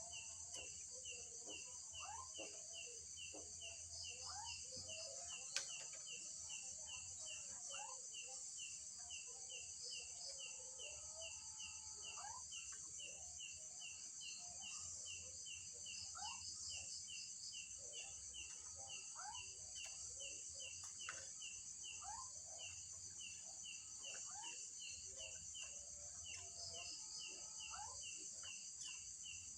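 Night insects chirring steadily, with a regular run of short high notes about twice a second and scattered short rising chirps. A single sharp click about five and a half seconds in.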